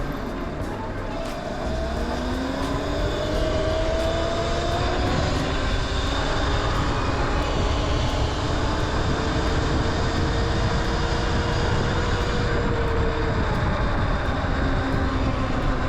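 Electric dirt bikes (Surron and Talaria) riding at speed. Their motors whine, rising and falling in pitch as the riders speed up and ease off, over heavy rushing wind and road noise.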